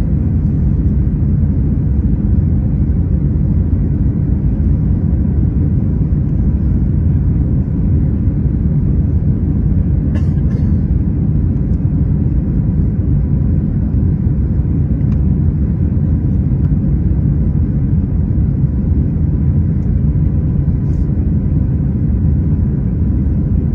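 A steady, loud low rumble that does not change, with a faint high steady tone and a couple of brief faint clicks.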